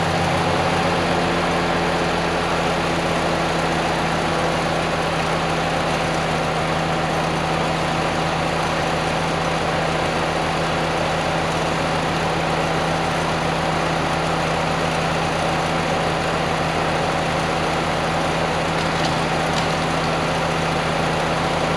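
An engine idling steadily, its pitch and level unchanging.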